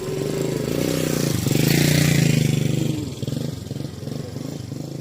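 Motorcycle engine running and passing close by, growing louder to a peak about two seconds in, then fading.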